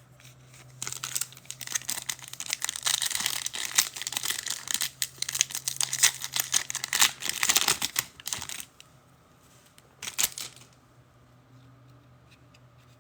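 Crinkly foil wrapper of a football trading-card pack being torn open and crumpled for several seconds, with a shorter crinkle about ten seconds in.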